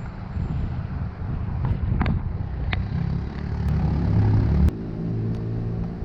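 A motor vehicle running with a low rumble and a few light clicks. About three-quarters of the way through it drops suddenly to a quieter, steadier engine hum.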